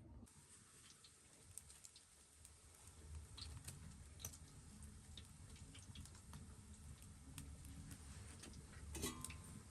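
Near silence with faint, scattered short clicks and ticks over a low background rumble.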